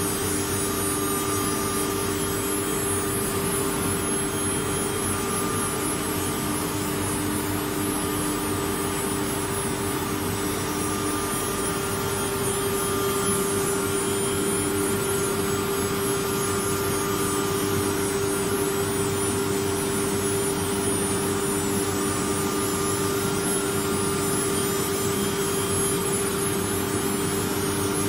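ATC CNC router running steadily: the spindle's constant whine over an even mechanical hum, with no change in pitch or loudness.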